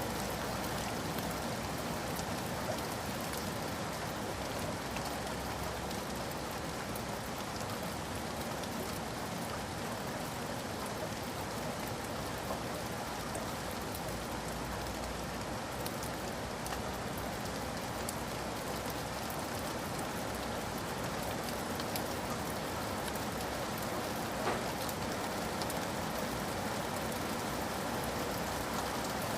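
Steady rain falling, with a few faint drop taps.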